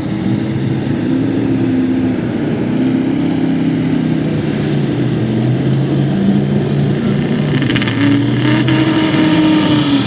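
Pulling truck's engine running hard at high revs while dragging the weight sled. Its pitch wavers, sags in the middle and climbs again near the end.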